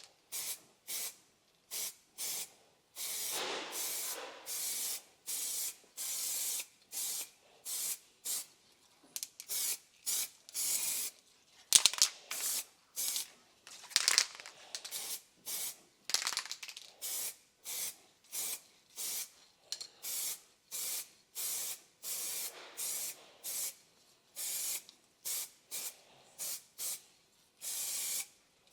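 Aerosol can of heat-resistant brake caliper paint spraying in short hissing bursts, about one a second, with brief pauses between, laying a coat of paint onto brake calipers.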